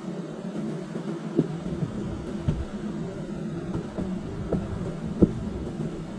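Honey bees buzzing in a steady hum from an opened hive, with a few dull knocks, the loudest about five seconds in.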